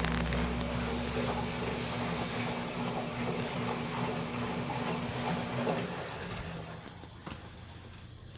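KMC washing machine running, a motor hum under a steady hissing churn of water, dying away over the last couple of seconds. A single click comes near the end.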